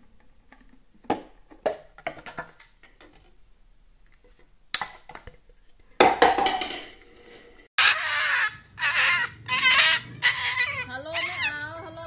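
Taps and clicks of a thin plastic lid as an Indian ringneck parakeet pries it off a plastic cup, with a louder clatter about six seconds in as the lid comes free. From about eight seconds on, a parrot's voice: a run of squawks and chattering calls, wavering in pitch.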